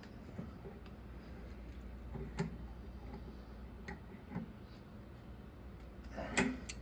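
A few scattered light clicks and taps of small plumbing parts and tools being handled, with a small cluster of them near the end, over a steady low hum.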